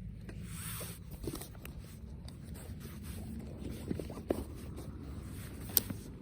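Camera gear being handled: scattered small clicks and rustles, with one sharp click near the end, over a low steady rumble.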